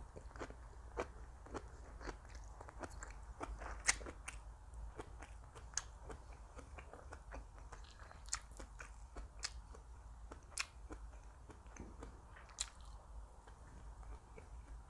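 A person biting and chewing crisp food, a close run of irregular sharp crunches that thin out near the end.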